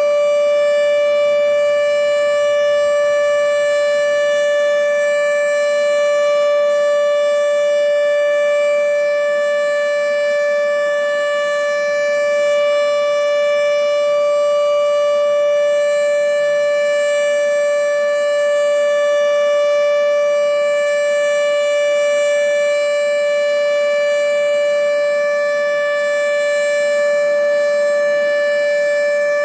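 Outdoor warning siren sounding a steady tone at one unchanging pitch, held for the whole stretch with only slight swells in loudness.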